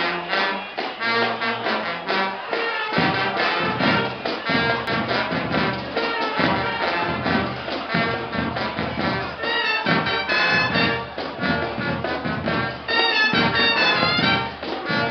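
Brass band music with trumpets and trombones, playing loudly over a steady beat that comes in about three seconds in.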